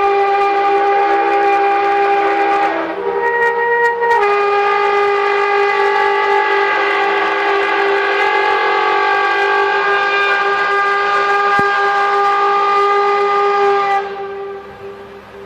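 Bulldozer blade scraping finished concrete, giving a loud, horn-like drone of several steady tones. The pitch shifts briefly about three seconds in and the drone stops near the end. This scraping is the source of the mysterious 'trumpet sounds from the sky'.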